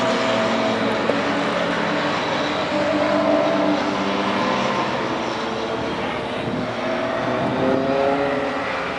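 Engines of vehicles on a race track: several engine notes rise and fall as cars pass, over a steady rushing noise.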